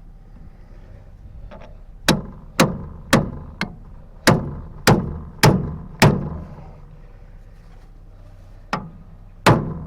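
Hammer blows on steel, eight in quick succession about half a second apart, then two more near the end, knocking loose a part of the tractor's steering cylinder assembly.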